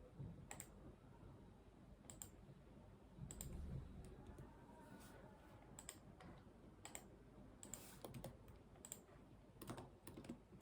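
Faint, sparse clicks of computer keyboard keys and a mouse, about one a second and irregularly spaced, with a soft low thump about three and a half seconds in.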